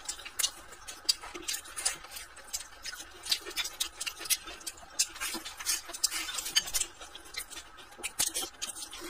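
Close-up chewing and lip-smacking of a person eating rice: an irregular run of soft, wet clicks and smacks, several a second.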